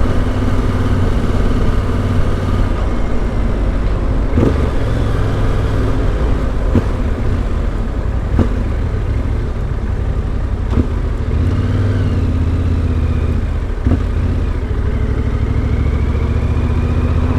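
Yamaha Ténéré 700's parallel-twin engine running through an Akrapovic exhaust, steady, with a few short knocks along the way; its pitch rises near the end as the engine picks up revs.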